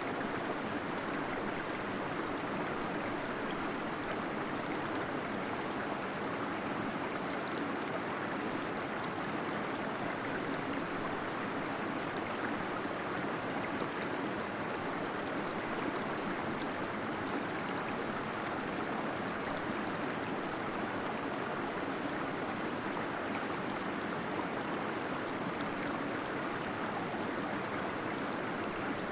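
Small waterfall splashing and gurgling into a pool inside a cave, a steady, even rush of water.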